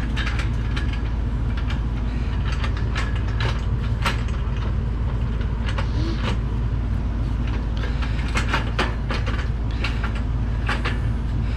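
Irregular light clicks and knocks of router-table frame parts being handled and fitted together, over a steady low hum.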